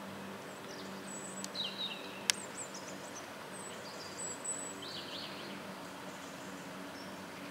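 Small birds chirping in short high calls over a steady low outdoor hum, with one sharp click about two seconds in.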